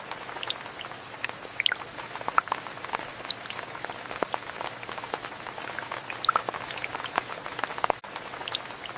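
Rain falling, a steady hiss with many irregular, sharp drops pattering close by.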